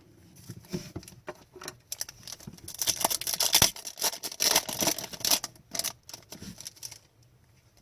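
Hockey trading cards being handled and flipped through: papery rustling and sharp card clicks, thickest and loudest in the middle, fading out near the end.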